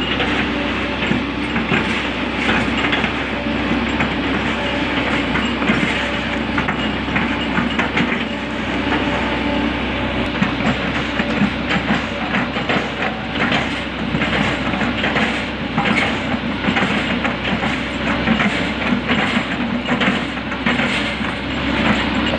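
Hydraulic excavator at work: a steady diesel engine drone with continuous irregular metallic clattering and rattling.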